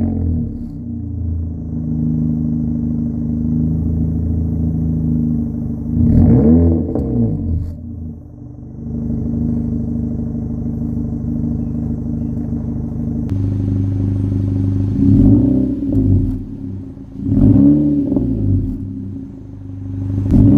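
2016 Honda Civic LX's K20C2 2.0-litre four-cylinder idling through a Flowmaster DBX pipe fitted in place of the resonator, with short throttle blips that rise and fall in pitch: one about six seconds in, two more a couple of seconds apart later on, and another at the end.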